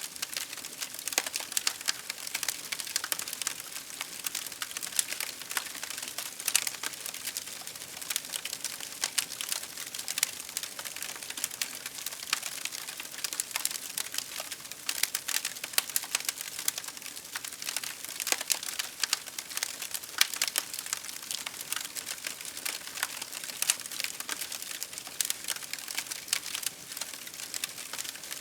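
Wood fire crackling, with many small irregular pops and snaps over a soft steady hiss.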